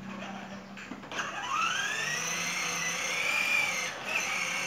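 Electric motor of a child's ride-on toy motorbike whining as it speeds up, rising in pitch about a second in and then holding steady.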